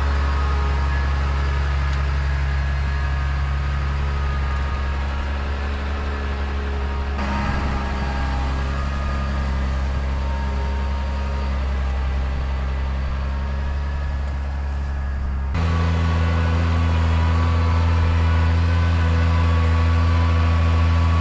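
A heavy engine running steadily with a deep low hum. Its pitch and level change abruptly twice, about seven and fifteen seconds in.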